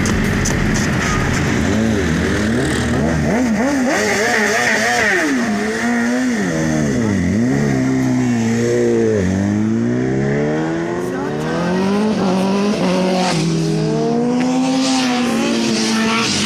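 Kawasaki ZX-10R superbike's inline-four engine revving, its pitch rising and falling again and again as the throttle is opened and closed, with one deep drop and climb about halfway through.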